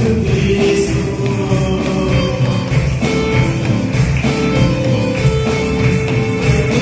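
Live Spanish-language gospel music in church: a band playing with a steady beat and a tambourine, with singing voices.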